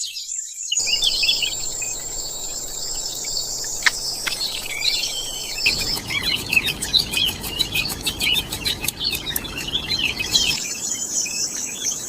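Natural ambience of small birds chirping rapidly over a steady high insect trill. A run of fast, even insect ticks comes in the middle.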